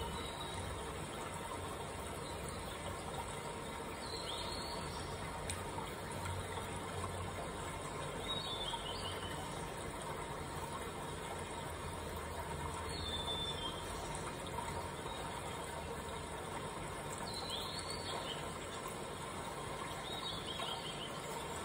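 A bird gives a short, high, falling chirp about every four to five seconds, over a steady low hum and hiss.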